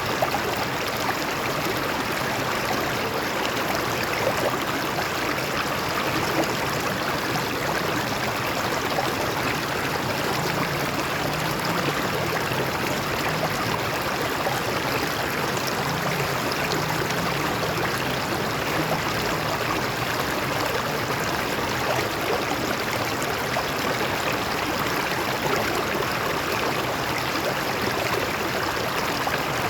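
Stream water flowing over rocks, a steady even rush with small splashes and gurgles.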